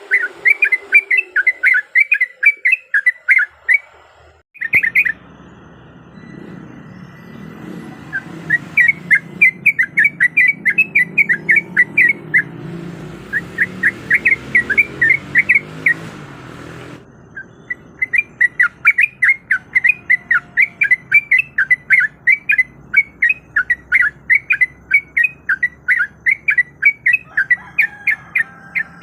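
Yellow-vented bulbul (trucukan) calling in quick runs of bright chattering notes, about four a second, with short pauses between runs. A low rumbling background noise sits under the calls through the middle part.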